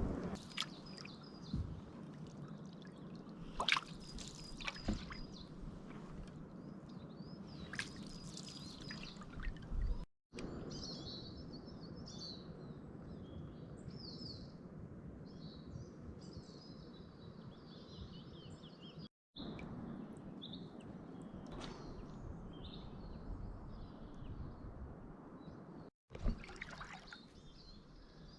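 River water trickling and lapping, with small birds chirping throughout and a few brief louder sounds. The sound cuts out abruptly three times.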